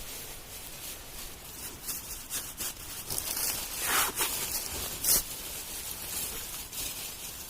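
Rustling and rubbing noises, with two sharper scrapes about four and five seconds in.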